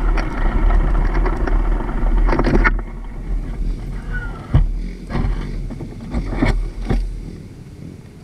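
Enduro motorcycle engine running with a heavy low rumble, the busier upper sound dropping away sharply about two and a half seconds in; a few scattered knocks follow as the rumble fades out near the end.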